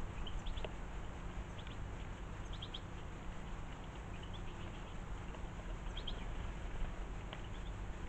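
Small birds giving short, high chirps at scattered moments, several in quick clusters, over a steady background noise.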